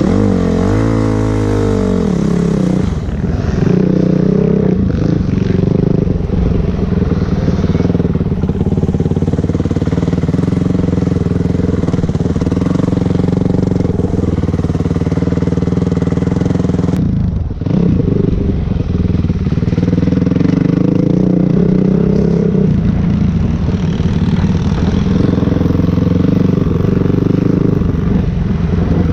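Dirt bike engine running under throttle while being ridden. Its pitch sweeps up and down in the first couple of seconds, then holds fairly steady, with a brief drop in the engine sound about 17 seconds in.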